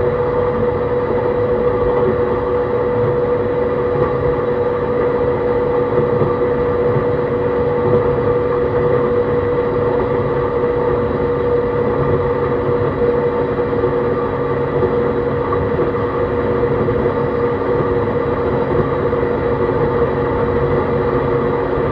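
E131 series 600-subseries electric multiple unit running at a steady speed: a continuous rumble of the wheels on the rails with a steady whine over it.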